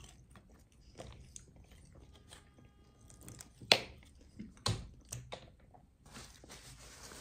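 Close-miked chewing and mouth sounds from eating roast chicken drumsticks, with a sharp click a little past halfway.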